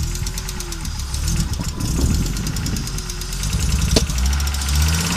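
Audi Coupe's five-cylinder AAR engine running roughly and unevenly, with one sharp click about four seconds in. The uneven running is a sign of the misfiring the owner reports since swapping in the AAR engine.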